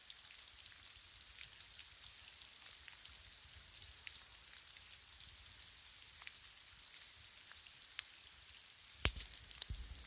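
Water dripping in a rainforest: scattered light ticks of drops over a steady faint hiss, with a couple of louder knocks near the end.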